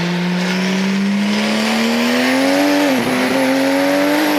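A performance car's engine accelerating hard at full throttle, its note climbing steadily, with a quick upshift about three seconds in and another near the end.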